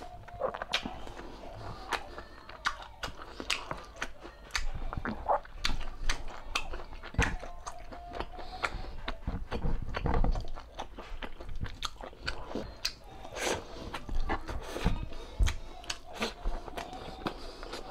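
A person eating close to the microphone: chewing and biting pork humba with rice, with many irregular wet clicks and smacks of the mouth.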